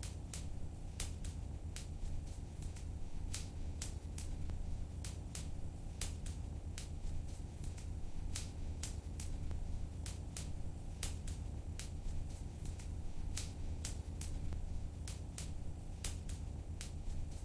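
Wood fire in a fireplace crackling: irregular sharp snaps and pops, a couple to a few per second, over a steady low rumble of the flames.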